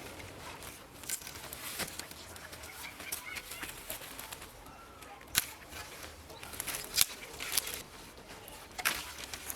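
A handful of sharp knocks or clicks at irregular intervals, the loudest about five, seven and nine seconds in, over faint bird sounds such as chickens clucking.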